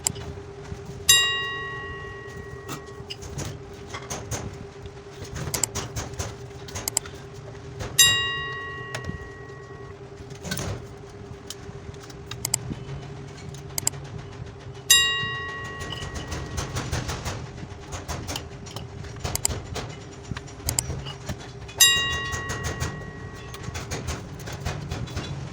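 A bell-like chime strikes four times, about seven seconds apart, each ringing out for a couple of seconds. Under it runs a steady hum, with scattered small clicks.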